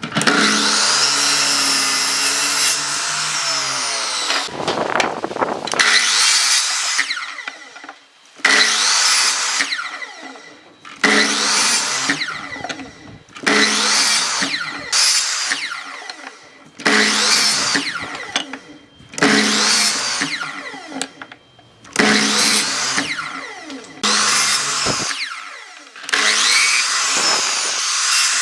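Electric power tool working wood. It runs for a few seconds, then makes repeated short passes, each starting sharply and fading away, about every two and a half seconds.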